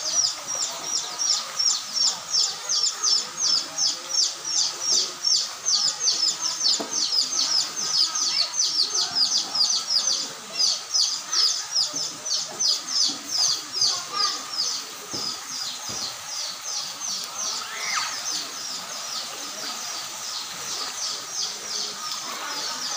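A bird chirping over and over: short high-pitched calls, about four a second, without a break, a little fainter in the second half.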